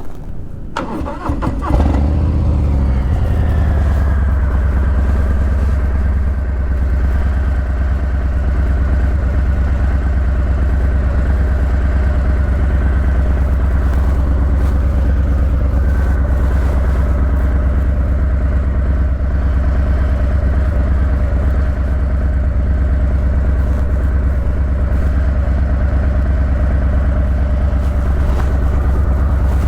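Harley-Davidson Breakout 117's Milwaukee-Eight V-twin with a Vance & Hines Eliminator 300 slip-on exhaust, idling with a deep, steady beat. About two seconds in, its note falls and settles into the idle.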